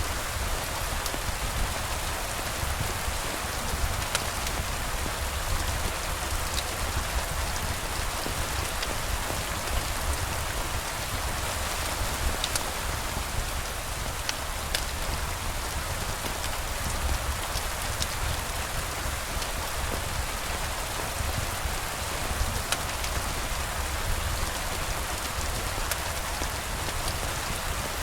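Steady rain falling, with scattered sharp ticks and a low rumble underneath.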